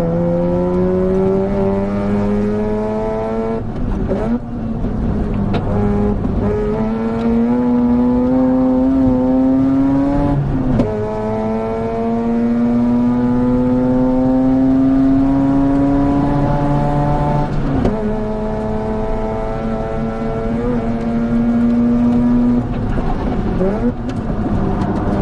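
Mazda RX-8's two-rotor rotary engine through an HKS Hi Power cat-back exhaust, accelerating hard through the gears. The pitch climbs steadily for several seconds, then drops sharply at each upshift, about four times.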